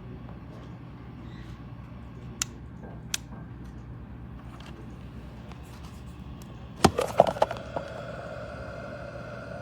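Two single clicks, then a quick cluster of clicks and knocks about seven seconds in, after which a steady hum starts: a cool mist humidifier being handled and switched on, its dial clicking and the unit beginning to run.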